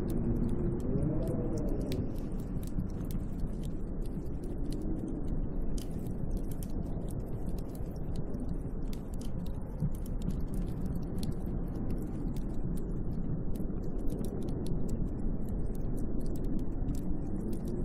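Snowstorm wind blowing around a hut: a steady low rushing with a howl that swells and falls in pitch, strongest about a second in and again near the end. Fine scattered ticking runs over it.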